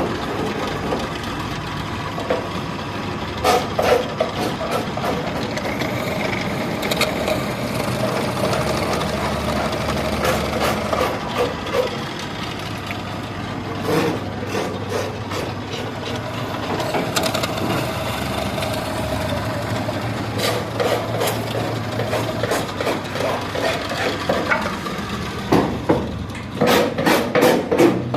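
Workshop noise: a machine running steadily, with scattered sharp knocks. Near the end comes a quick run of hammer-like taps, about three or four a second.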